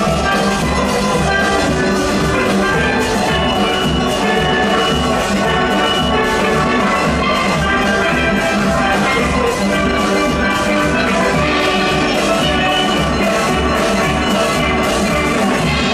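A full steel orchestra playing a fast soca-calypso tune, many steel pans ringing together over a steady drum-kit and percussion beat.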